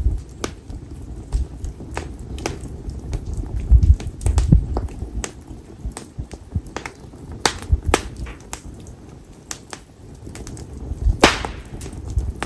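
Split konara oak firewood burning in an open fire, crackling with irregular sharp pops over a low rumble. One louder crack comes near the end.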